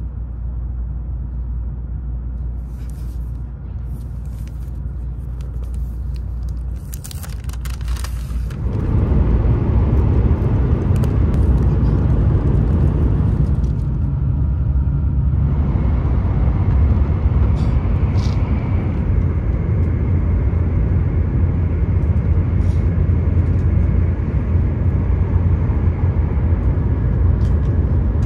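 Shinkansen bullet train running, a steady low rumble heard from inside the passenger cabin, which grows louder about eight seconds in. A few brief clicks and rustles come before the rise.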